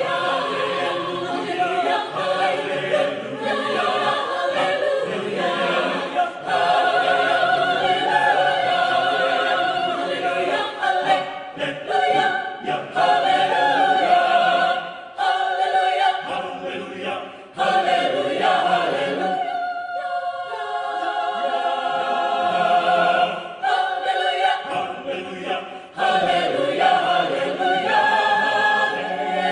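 Mixed adult choir singing in several parts. About twenty seconds in, the low voices drop out for a few seconds while the upper voices sing alone, then the full choir comes back in.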